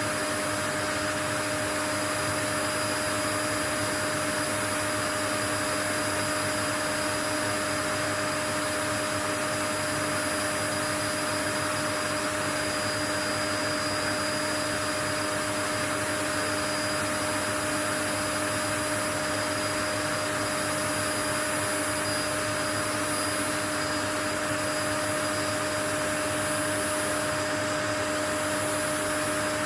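Steady, unchanging whir of an electric appliance motor blowing air, a rushing hiss with a constant hum and whine over it, played as white noise.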